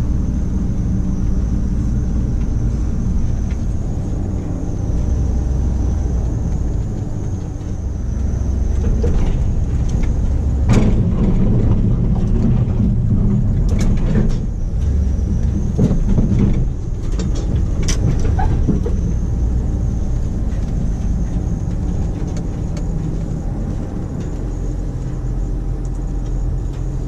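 1991 Dodge W350 pickup's 360 V8 engine running steadily under plowing, with several sharp knocks and clatters about halfway through.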